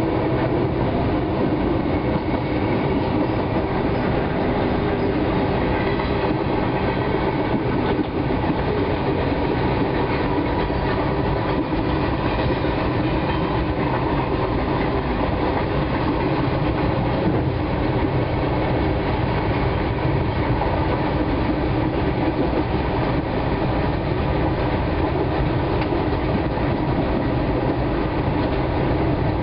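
Comeng electric suburban train running steadily along the track, heard from its front cab: continuous rail and running-gear noise.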